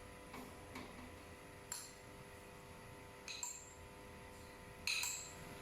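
A handful of light metallic clinks and ticks, five in all, the later ones ringing briefly, as metal cookware is handled on the stove. A faint steady hum runs underneath.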